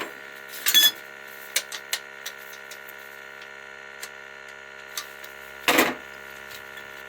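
Sharp metallic clicks and clanks of hand tools and parts being handled on an oil burner as it is opened up to reach the nozzle, with two louder knocks, one about a second in and one near the end, over a steady hum.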